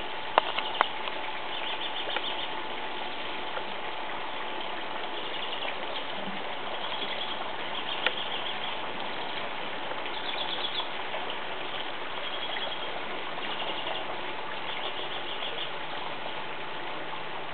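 Small songbirds calling in short, rapid trills that recur every second or two over a steady hiss, with a few sharp clicks near the start and one about eight seconds in.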